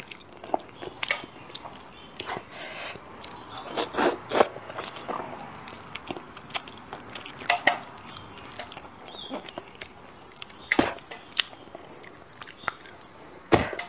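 Close-miked mouth sounds of eating braised fish: chewing, wet lip smacks and irregular small clicks, with a few sharper smacks, the loudest near the end.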